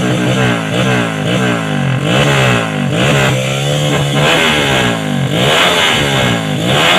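Yamaha Jupiter Z motorcycle engine, bored to 120 cc, through a DPJ aftermarket exhaust, revved in repeated throttle blips: the pitch rises and falls about once or twice a second, with a brief steady hold near the middle.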